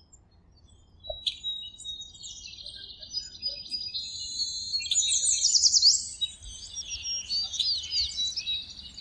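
Several songbirds chirping and singing together, with quick high trills and rapid downward-sweeping notes, busiest around the middle.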